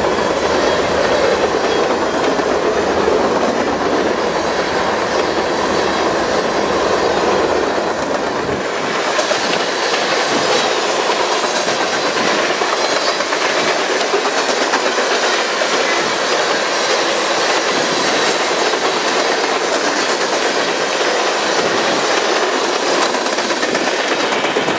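Long freight train of covered hopper cars rolling past at speed, a steady rumble and rush of steel wheels on the rails with clicking over the rail joints. The deepest rumble drops away about nine seconds in.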